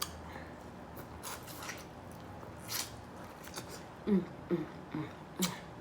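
Wet crunching and juicy bites into corn on the cob as it is eaten. From about four seconds in come a woman's short, rhythmic hums, falling in pitch.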